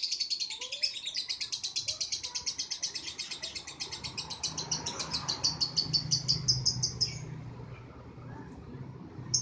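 Lovebird in its long 'ngekek' song: a rapid, even, high-pitched chatter of repeated notes that runs on and stops about seven seconds in, followed by one brief chirp near the end.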